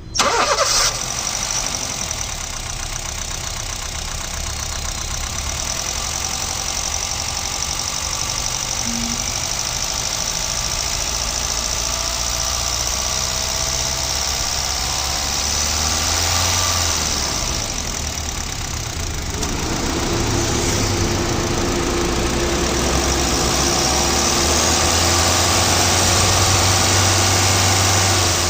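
Honda City's engine running steadily at about idle, its speed rising and falling a little. A steady whine joins the engine sound about two-thirds of the way through.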